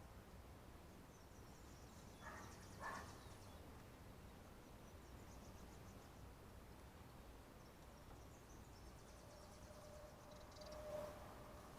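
Near silence: faint outdoor background with soft, high animal chirping, and two brief soft sounds about two and three seconds in.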